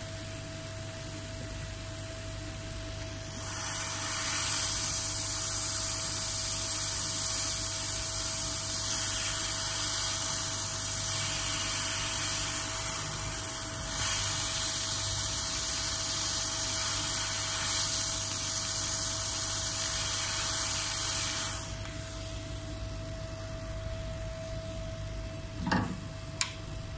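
An air blower hissing steadily for about eighteen seconds, with a brief dip about halfway through, over a constant high-pitched hum.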